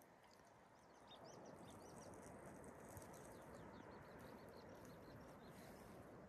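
A small bird twittering faintly in many quick, short, high chirps, over a faint steady background hiss.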